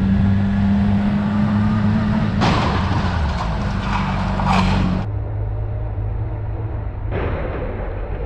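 Motor vehicle engine and road noise: a steady low drone with swells of rushing noise, changing abruptly about five seconds in.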